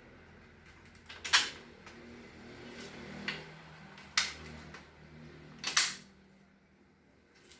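Telescope parts being handled and fitted together during assembly, giving a few sharp clicks and knocks: one about a second in, then others around three, four and six seconds.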